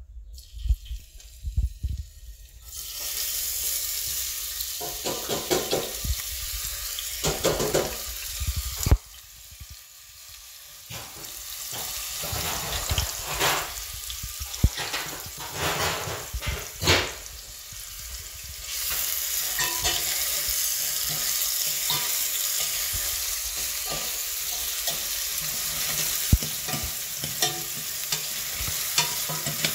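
Food sizzling as it fries in hot oil in a stainless steel pot, with a spatula scraping and knocking against the pot as it is stirred. The sizzle starts a few seconds in, dips about a third of the way through, then comes back steady and louder for the second half.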